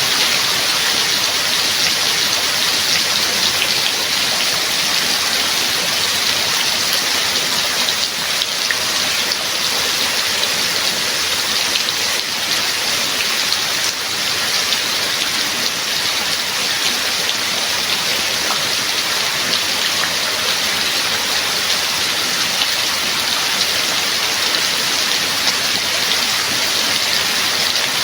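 Steady rain falling, an even, dense hiss of drops that holds level throughout.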